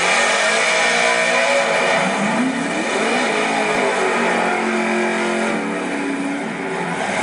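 Race car engine at a drag strip running loudly, its pitch rising about two seconds in and then holding higher.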